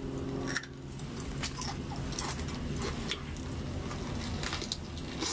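Close-miked mukbang eating sounds: a woman chewing and biting into a burger, with many short, irregular wet mouth clicks and crunches.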